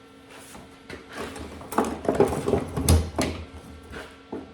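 Objects in a cluttered workshop knocking and clattering as they are shoved aside and handled during a search for the welding stinger. It is an irregular run of knocks, busiest in the middle, with a dull thump near three seconds.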